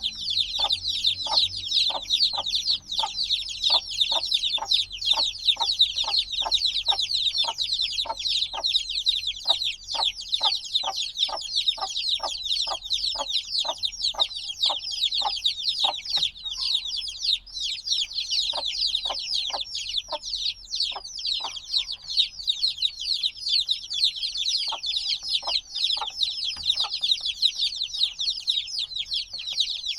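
A brood of chicks a few days old chirping continuously: a dense chorus of high, short, falling cheeps, which the keeper puts down to their still needing the mother's warmth. A regular light tapping, about two a second, runs under the chirps for roughly the first half, then comes only now and then.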